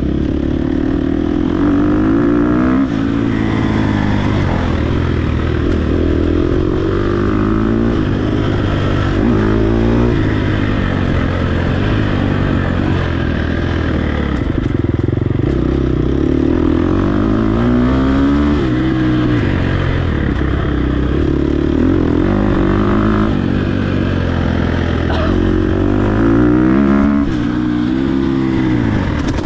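Dirt bike engine under race riding, revving up and dropping back over and over as the throttle is worked on the trail.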